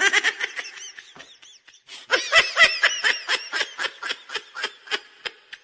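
A baby laughing in quick, high-pitched bursts: a short laugh at the start that fades, then from about two seconds in a long run of rapid laughs.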